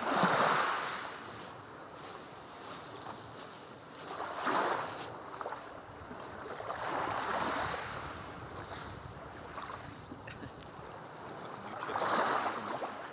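Sea waves breaking and washing up a volcanic black-sand beach, surging four times over a steady hiss of surf.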